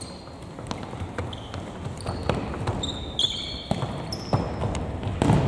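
Ball thumps and sneaker squeaks on an indoor court floor during play: scattered sharp knocks and short high squeals, with voices rising near the end.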